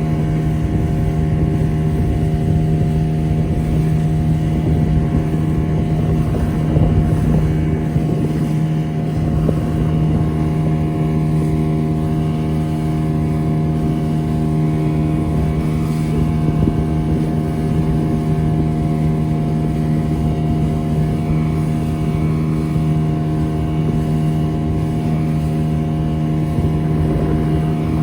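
Motorboat engine running at a steady speed under way, a constant low hum with rough rumbling underneath.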